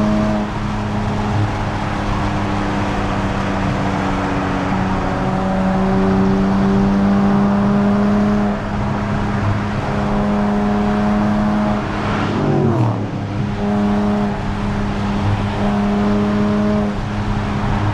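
Nissan Z Nismo's twin-turbo V6 droning steadily through its Nismo Track exhaust under way at constant revs, over road noise. About twelve seconds in the revs briefly fall, then settle back to a steady drone.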